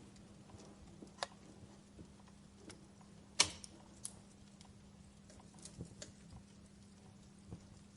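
Wood fire crackling in a fireplace: sparse, irregular crackles, with one loud pop about three and a half seconds in.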